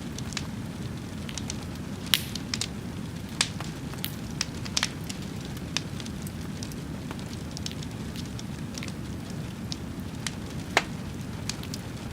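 Wood fire crackling: a steady low rush with irregular sharp pops, a few of them louder, about two seconds in and near the end.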